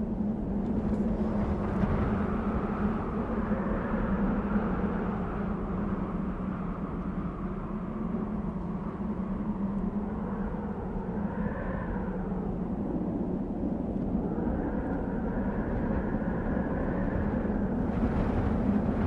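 Desert wind blowing steadily with a low rumble and a whistle that rises and falls, and hissing gusts about a second in and near the end.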